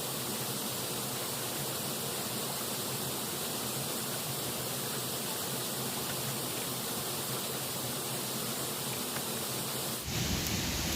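Steady rushing of river water. About ten seconds in it changes abruptly to a louder, deeper rush.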